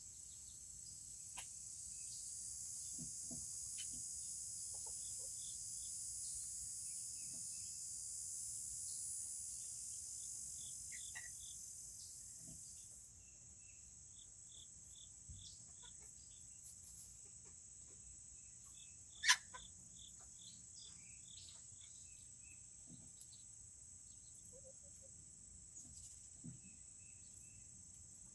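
A steady, high-pitched insect trill that is louder for about the first half, then drops off. Over it come scattered soft cheeps and clucks from small serama chickens, and a single sharp tap about two-thirds of the way through.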